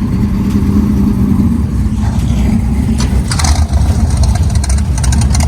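Car engine running loudly, with a louder, noisier rush about three seconds in.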